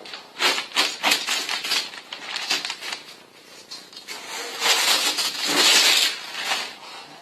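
Spray gun spraying clear Plasti Dip mixed with glitter, as a hiss: several short bursts, then one longer, louder spray of about a second and a half in the second half.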